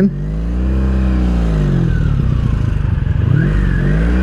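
The 1983 Honda Sabre VF750S's V4 engine, still warming up, revs up and falls off over the first two seconds, drops low about three seconds in, then picks up again near the end.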